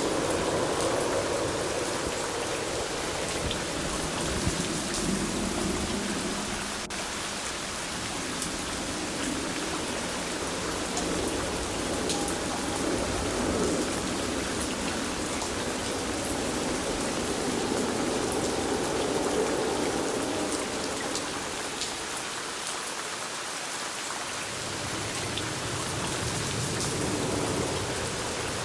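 Steady rain falling: a continuous hiss of rainfall with many small sharp drop ticks, the fuller lower sound swelling and easing slowly.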